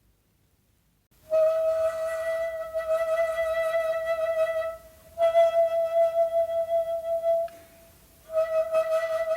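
Shakuhachi, the Japanese end-blown bamboo flute, entering after about a second of silence and playing long held notes on the same pitch, one breath after another, with short breaks between them; the third note pulses with a regular wavering.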